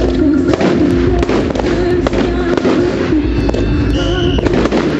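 Fireworks going off in a display: repeated bangs and crackling over loud music, with a brief high whistle near the end.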